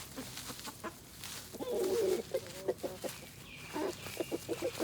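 Chickens clucking. A short burst of calls about two seconds in is followed by a run of quick clucks through the second half.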